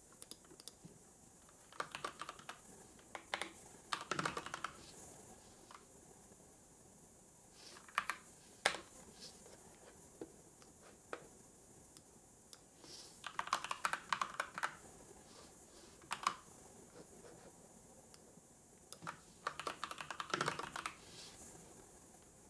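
Typing on a computer keyboard in short bursts of rapid key clicks separated by pauses of a few seconds, over a faint steady hiss.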